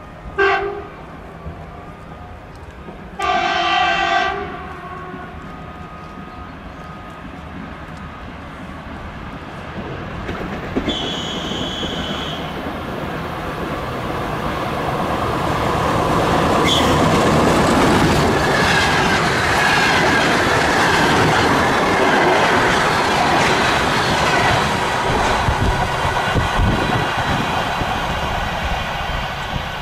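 DR1A-series diesel multiple unit sounding its horn, a short blast followed by a longer one of about a second. The train then passes, its noise and wheel-on-rail clatter building to a peak about halfway through and beginning to fade near the end.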